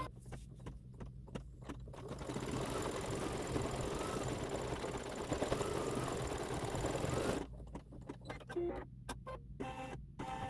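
Embroidery machine stitching the berries of a holly design: a steady run of needle strokes for about five seconds, with scattered clicks before it gets going and after it stops, about seven and a half seconds in.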